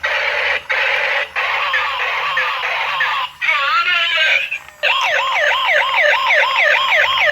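A toy police car's electronic siren sounds play through a small speaker as a run of short clips: hissy, radio-like noise with faint sweeps, then from about five seconds in a rapid yelp siren at about four sweeps a second.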